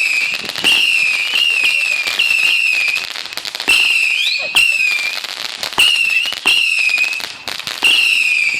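Multi-shot consumer firework cake, the Howling Hell Cat, firing in rapid succession: each shot gives a high whistle of about half a second, about one or two a second, one gliding sharply upward about four seconds in, mixed with sharp cracks and crackling.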